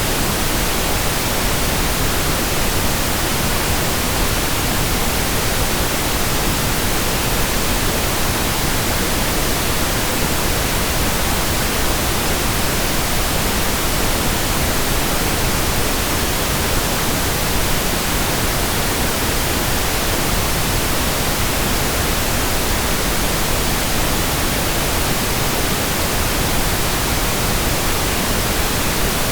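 Synthetic pink noise: a steady, unchanging hiss spread evenly across the whole range, with no breaks or events.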